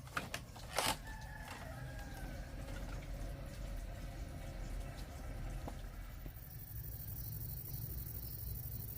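A rooster crowing about a second in, after two sharp knocks, over a steady low rumble.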